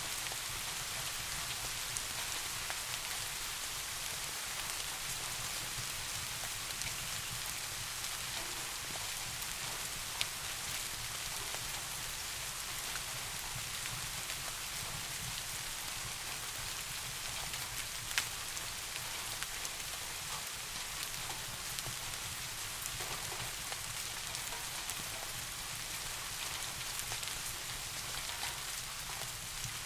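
Steady rain falling on a surface: a dense, even hiss with a soft low rumble under it. A few sharp ticks stand out, one about ten seconds in and a louder one about eighteen seconds in.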